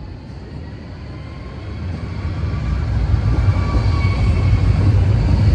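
Train approaching on the line, its low rumble growing steadily louder from about two seconds in, with faint high ringing tones from the rails and wheels.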